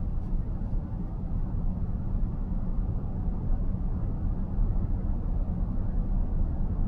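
Steady low road and tyre rumble of a car moving at speed, heard from inside the cabin.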